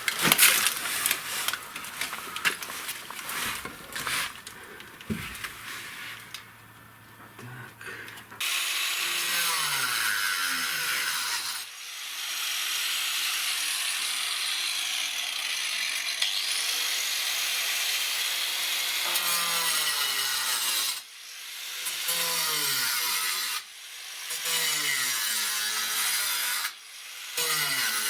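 Irregular knocks and scrapes, then about eight seconds in a power tool starts cutting into corrugated asbestos-cement roof sheeting to open a hole, running in long stretches and stopping and restarting several times near the end.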